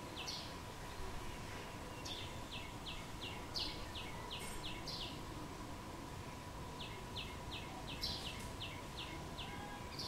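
A bird calling in quick runs of short, sharp, falling notes, about four a second. The runs come in three bursts, with a few louder, brighter notes mixed in. A faint steady whine lies underneath.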